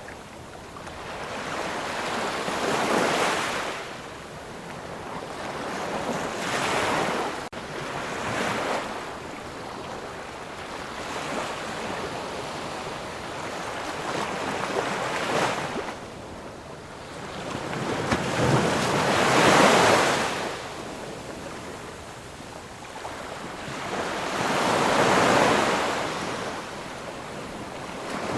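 Ocean surf: waves break on the shore one after another, each a wash of noise that swells up and falls back every few seconds. The biggest wave comes a little past the middle.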